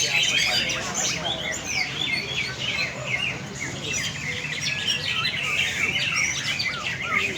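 Several caged green leafbirds (cucak ijo) singing at once in a contest, a dense, overlapping stream of quick chirps, whistles and trills.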